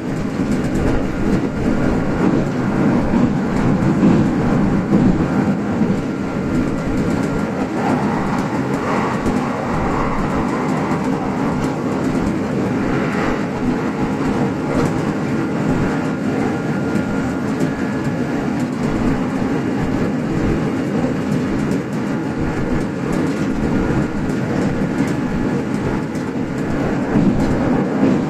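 Kintetsu express electric train running at speed on standard-gauge track, heard from inside the leading car: a steady rumble of running noise with wheels clicking over the rails and a faint steady high tone.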